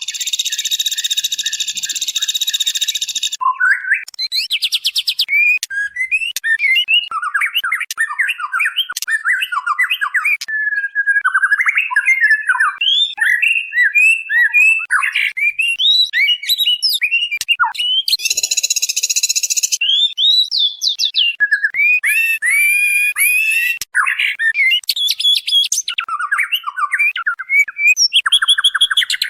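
White-rumped shama (murai batu) singing continuously: fast, varied whistled phrases broken by a few harsh rasping notes, one at the start and others past the middle. Presented as a female shama's call to draw a male.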